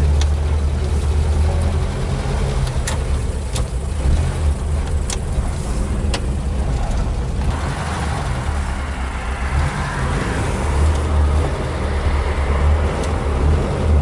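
Inside the cabin of a moving GAZ-21 Volga, its four-cylinder engine runs with a steady low drone. A few sharp clicks come in the first half, and the engine sound grows busier about halfway through as the car picks up speed.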